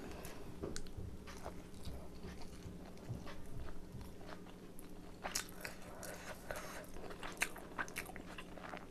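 A person chewing chicken momos close to the microphone: soft, wet chewing with many small irregular mouth clicks and smacks, busier in the second half.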